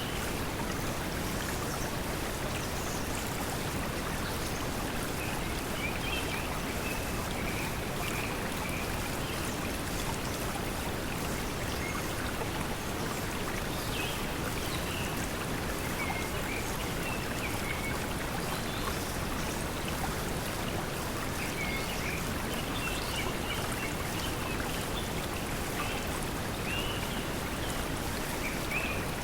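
Steady pink noise mixed with flowing water, with faint chirping bird calls coming and going over it.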